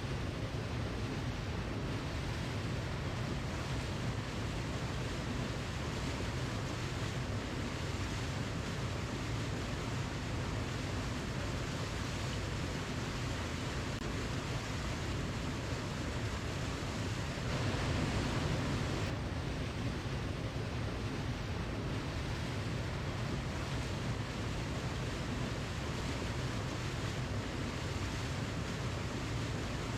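Waterfall: a steady, even rush of falling water, swelling briefly a little past halfway.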